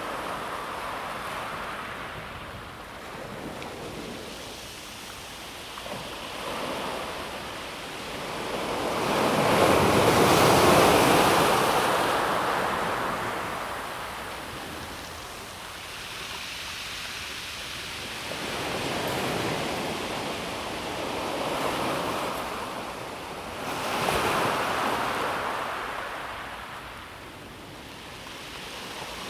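Calm sea waves washing in and out over a pebble beach, swelling and ebbing in slow surges. The biggest wave comes about a third of the way in, and another swells a few seconds before the end.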